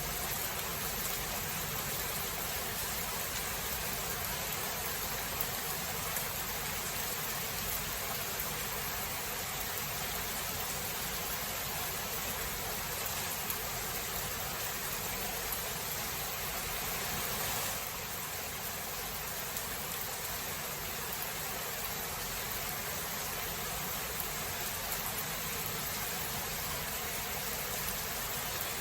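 Steady rain from a thunderstorm recording: an even hiss that dips slightly in level about two-thirds of the way through.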